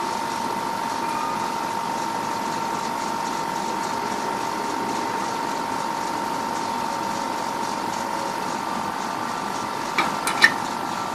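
Steady machine hum with a constant whine near 1 kHz, then a few sharp clicks near the end.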